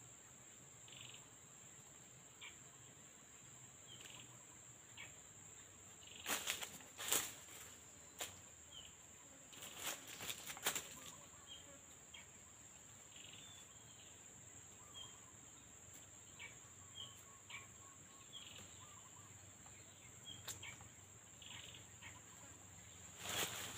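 Steady high-pitched insect trill with scattered short bird chirps. Bursts of rustling and knocks come at about a quarter of the way in, again a few seconds later, and near the end; these are the loudest sounds.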